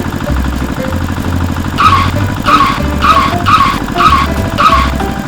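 Small electric motor of a miniature DIY tractor running with a steady buzz, over background music with a bass beat; from about two seconds in, a sharp hit repeats about twice a second.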